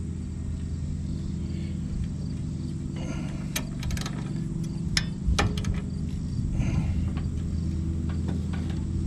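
A few sharp metallic clicks and clinks of hand tools on bolts, over a steady low mechanical hum.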